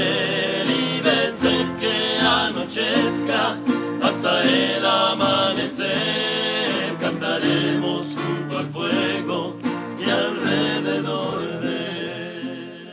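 Acoustic guitar strumming the closing bars of a scout campfire song, fading out near the end.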